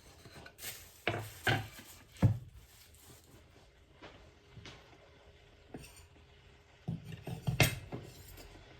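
Kitchen handling sounds: dishes and utensils knocking and clinking a few separate times, the loudest knocks about two seconds in and near the end.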